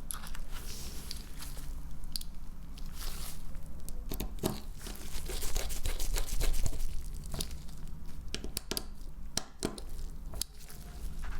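Irregular small clicks, taps and scraping of hand tools working on the opened Samsung Galaxy S10e phone during disassembly.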